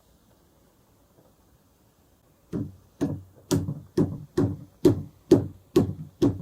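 A quick series of nine sharp knocks, about two a second, starting about two and a half seconds in, each ringing briefly.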